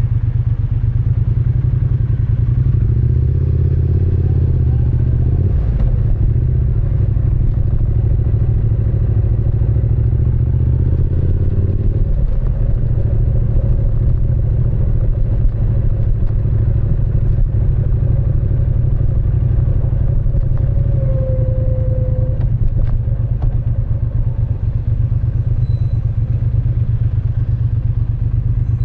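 Triumph Speed Twin 900 parallel-twin engine and exhaust running with a deep, steady note. The pitch shifts up and down in the first half, then holds steady.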